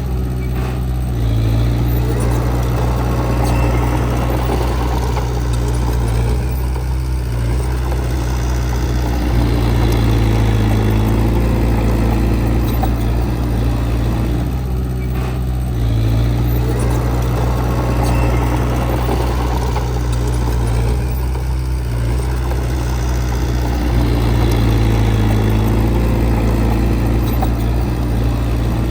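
Diesel engine of heavy earthmoving equipment running continuously, its note swelling and easing in a repeating cycle about every seven to eight seconds as the machine works.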